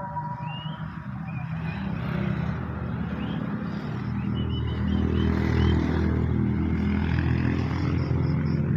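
A motor vehicle engine running and getting steadily louder, with a few short, faint bird chirps over it.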